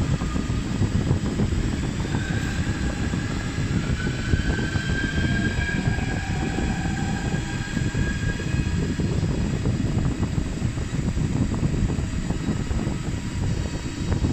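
Steady machine noise from a CNC machine and its six-axis loading robot running, with a faint whine that rises slightly from about two seconds in and fades out after about nine seconds.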